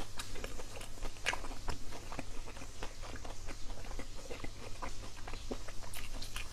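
A person biting and chewing charred grilled pork large intestine, close to the microphone: a dense, irregular run of sharp clicks several times a second, over a steady low hum.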